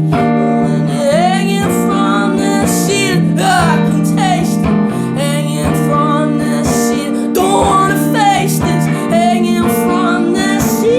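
A song played live: strummed guitar chords with a voice singing over them in drawn-out, sliding notes.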